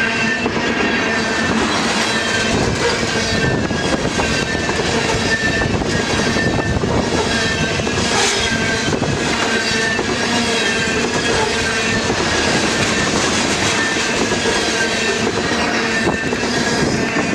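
Freight train of tank cars rolling past, a steady loud rumble of steel wheels on rail with clickety-clack over the joints and a faint high wheel squeal.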